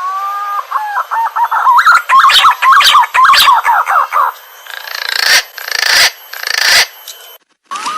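Green pigeon (punai) song: a long rising whistle, then a quick run of looping, fluting whistles. In the second half come several short hissing bursts.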